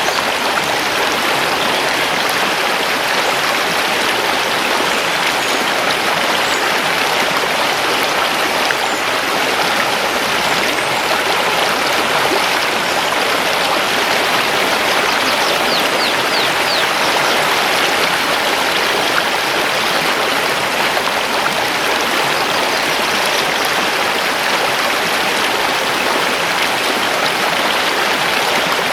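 Mountain river rushing steadily over stones. A few faint high bird chirps come through about halfway through.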